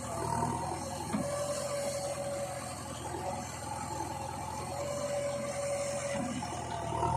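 Diesel engine of heavy farm or earthmoving machinery running steadily, with a wavering whine over the low engine hum.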